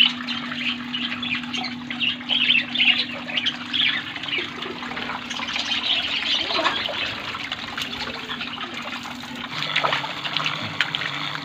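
A colony of budgerigars chattering and chirping continuously, with water trickling steadily underneath.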